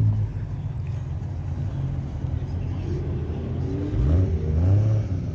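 A car engine running with a steady low rumble; between about three and five seconds in its pitch rises and falls a few times, as in light revving.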